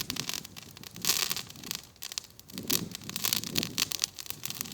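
Campfire crackling, with many sharp snaps and pops.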